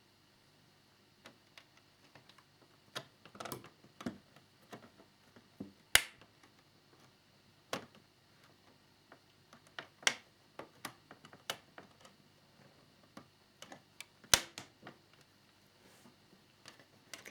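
Scattered small clicks and taps of plastic model fairing parts and tiny screws being handled, with two sharper clicks about six seconds in and again near fourteen seconds.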